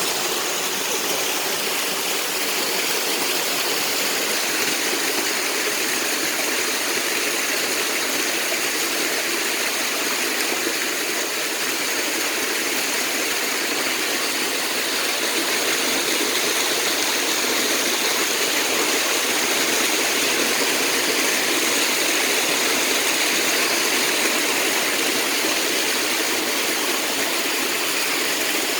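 Steady, even rush of flowing water, constant throughout.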